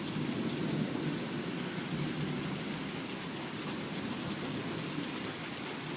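Heavy rain falling steadily, a dense even hiss of drops on surfaces, as a thunderstorm moves in.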